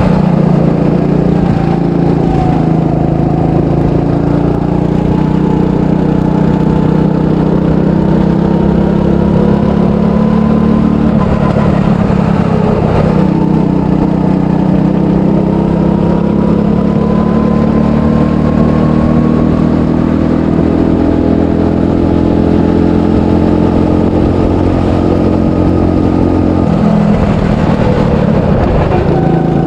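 300cc go-kart engine running under load on a lap. Its pitch climbs slowly as the kart gains speed, then changes suddenly near the end as the driver comes off the throttle.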